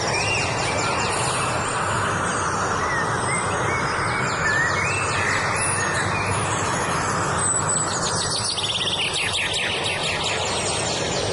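Several wild birds singing, with overlapping short chirps and rapid trills, over a steady rushing background noise.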